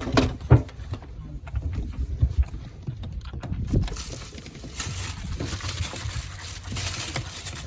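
Low, uneven rumble of wind and motion aboard a small fishing boat, with scattered knocks and a hiss of water that swells from about five to seven seconds in.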